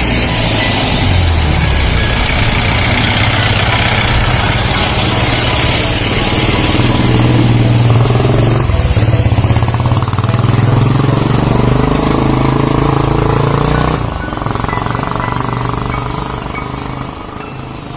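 A motor vehicle's engine running close by, its low pitch shifting up and down as it works, then dropping away about fourteen seconds in.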